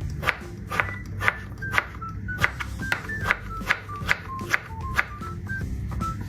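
Knife slicing through a bolete mushroom onto a cutting board, short crisp cuts about two a second, over background music with a simple stepping melody.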